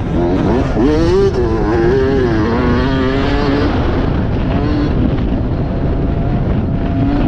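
Motocross motorcycle engine revving, its pitch rising and falling with the throttle, then holding steady before it fades and climbs again near the end, over a rough steady rumble.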